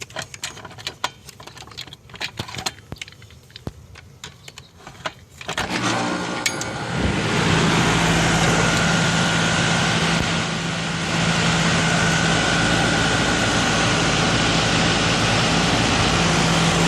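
A few scattered clicks, then about six seconds in a 3-ton central air conditioning condenser starts up on its first startup. Its compressor and fan come on and run steadily with a low hum and a thin, steady whine over the rush of air.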